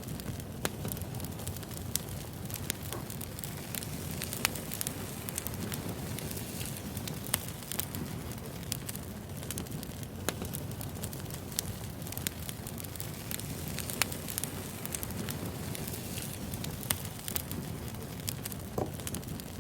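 Wood fire burning, with irregular crackles and pops of burning logs over a steady hiss.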